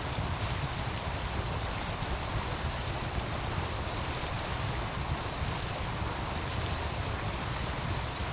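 A meltwater stream rushing steadily, with a low rumble underneath, while a wood fire crackles with scattered small, faint pops.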